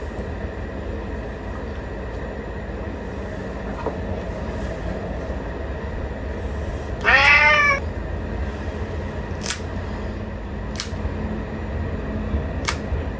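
A domestic cat meows once about seven seconds in, one drawn-out call that rises and then falls in pitch, over a steady low rumble. A few sharp clicks follow near the end.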